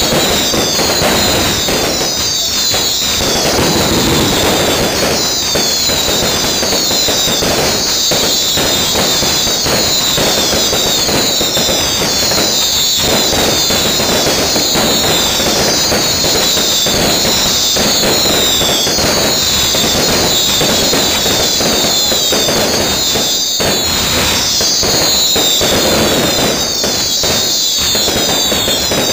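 Aerial fireworks display at full barrage: a dense, unbroken stream of bangs and crackling. Many whistling shells overlap on top, their high whistles rising and falling in pitch.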